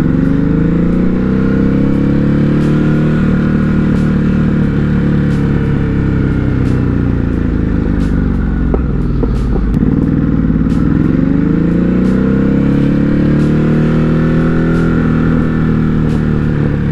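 Ducati Hypermotard 950 RVE's L-twin engine accelerating, rising in pitch, then slowing almost to a stop about nine seconds in before pulling away again and easing off near the end.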